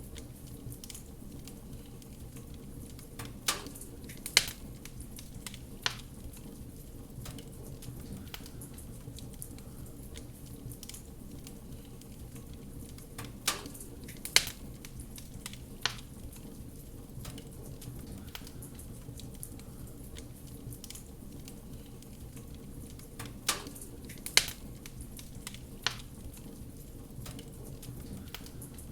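Wood fire in a fireplace crackling over a steady low rumble, with small ticks throughout and a cluster of three sharper, louder pops that comes back about every ten seconds.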